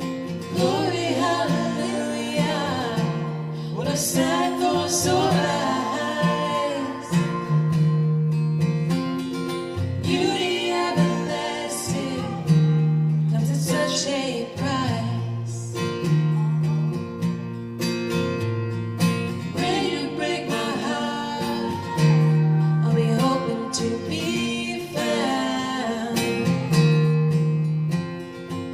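A song sung to guitar accompaniment, the voice carrying the melody over the changing chords.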